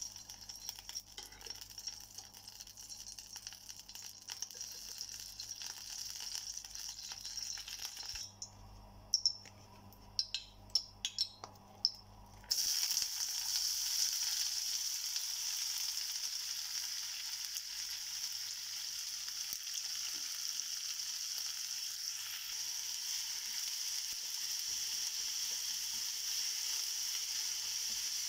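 Ghee sizzling faintly in a hot pan, with a few sharp clicks in the middle. After about twelve seconds a louder, steady sizzle takes over as sliced onions fry in the ghee and are stirred with a wooden spatula.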